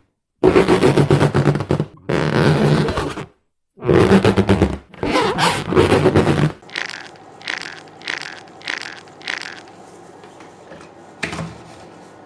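Cartoon sound effects: four loud, noisy bursts of a second or so each, then a row of about six short sounds that fade away, and one brief hit near the end.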